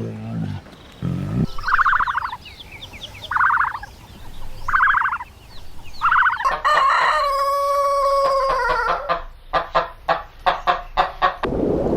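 Chickens: three short squawks, then a rooster crowing one long call, then a run of quick clucks, about five a second.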